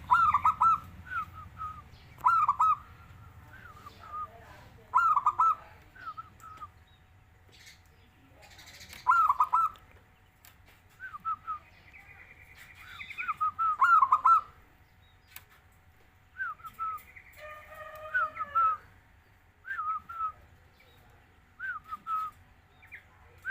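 Zebra dove (perkutut) cooing again and again in short phrases, a second or a few seconds apart.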